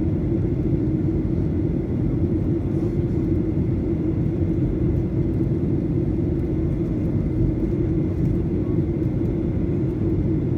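Steady jet drone inside the cabin of a Boeing 737-900: the CFM56-7B engines and airflow make a constant rumble with a steady hum over it.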